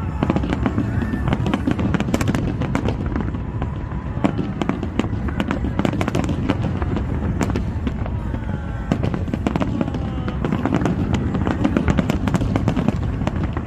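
Finale barrage of a large fireworks display: continuous overlapping bangs and crackling over a constant low rumble, with a few falling whistles.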